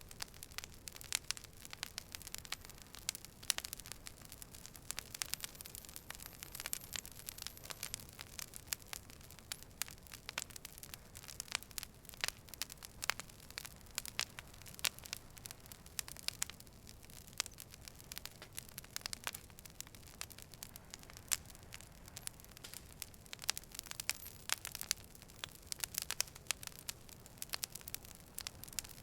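Campfire crackling: wood snapping and popping in a constant, irregular stream of sharp clicks over a faint low rumble.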